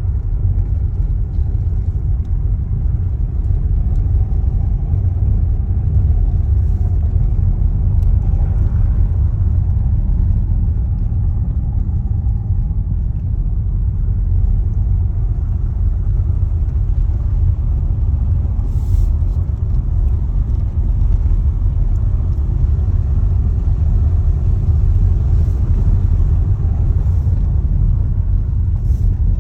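Steady low rumble of a TOGG T10X electric SUV on the move: road and tyre noise with no engine note.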